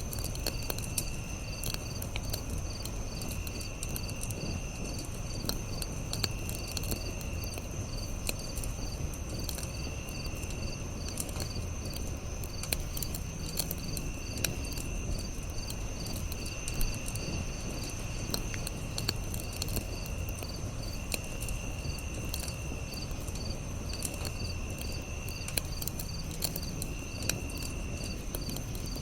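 Campfire crackling with scattered pops over a low rumble, under steady insects chirping. One high trill holds on and a faster pulsing chirp runs above it. A lower trill of about a second comes back every couple of seconds.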